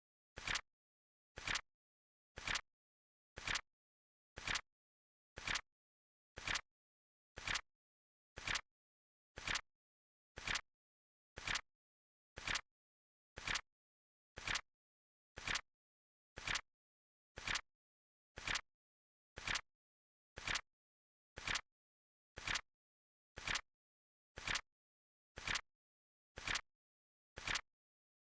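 Flip-clock timer sound effect ticking steadily once a second, each tick a short, crisp double click like a card flapping over.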